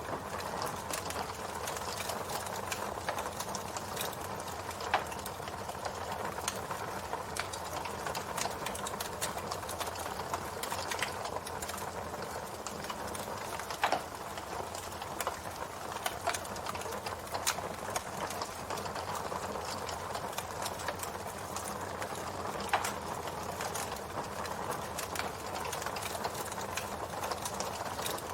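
Campfire burning with a steady hiss and continual crackling of wood, a few louder pops standing out at about 5, 14 and 23 seconds in.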